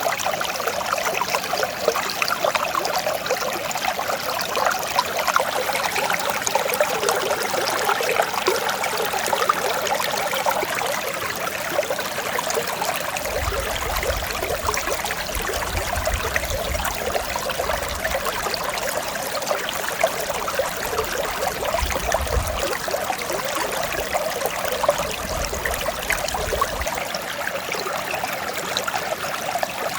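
Mountain stream flowing over rocks: a steady rushing, babbling water sound. Through the middle stretch a low rumble comes and goes under it.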